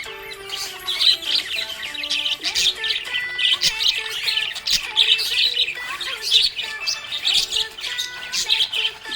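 Several small pet parrots chirping and chattering busily with quick, high calls, over background music with held melodic notes.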